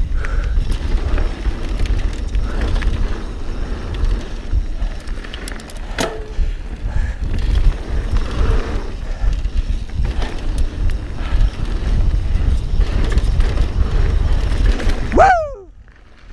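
Mountain bike riding down a dirt trail: steady rattle and tyre noise with heavy wind rumble on the camera microphone, and a sharp click about six seconds in. Near the end there is a short pitched squeal, then the riding noise cuts off suddenly.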